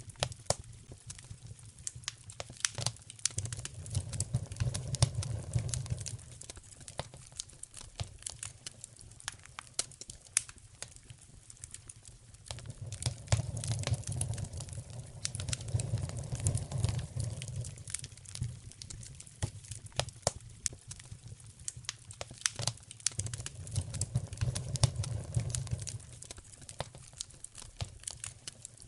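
Wood fire crackling in a fireplace: dense, irregular sharp pops and snaps throughout. A low rumble swells up and fades away three times.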